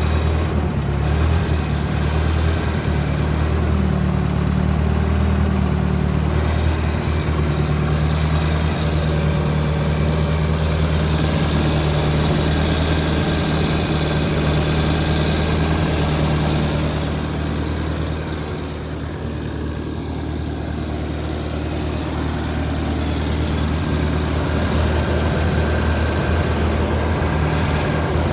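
1963 Ford 2000 tractor engine idling steadily after being revived with a new carburettor, dropping slightly in loudness about two-thirds of the way through before coming back up.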